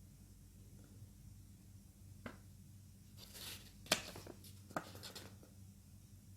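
Faint paper rustling with a few light taps and clicks as a printed user manual is handled and opened.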